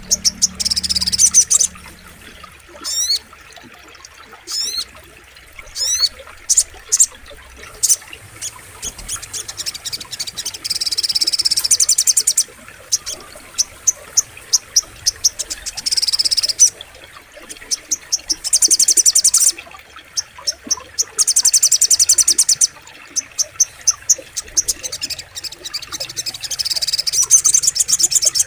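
Little spiderhunter (sogok ontong) singing: rapid high-pitched chattering trills in bursts of one to two seconds, with strings of quick separate notes and a few fast upward-sweeping notes between them.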